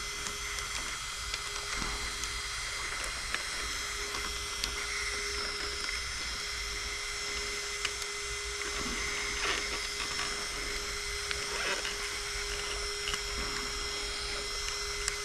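Electric RC truggy's 4250 kV brushless motor whining as it drives, its high pitch rising and falling with speed, with a few light ticks.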